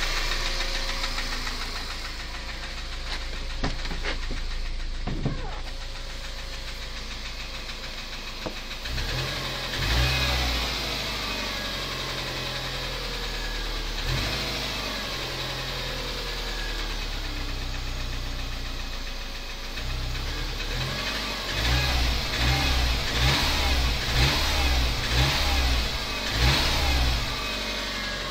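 Subaru EJ202 2.0-litre flat-four engine running with a knock that the owner traces to the fourth cylinder. In the second half the engine speed rises and falls in several quick bursts.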